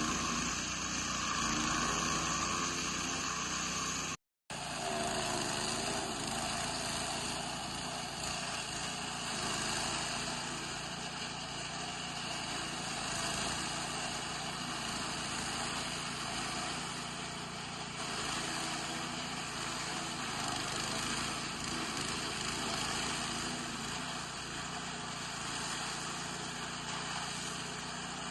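Small petrol engine running steadily, driving a chaff cutter, with a sudden brief dropout about four seconds in.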